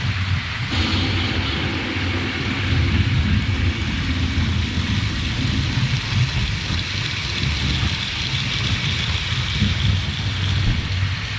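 Model railway layout in operation, giving a steady rumble with hiss. The sound thickens about a second in.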